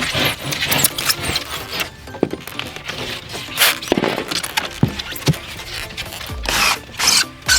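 Irregular scraping, rubbing and squeaking of extruded polystyrene foam insulation boards being handled, pushed into place and cut, under background music.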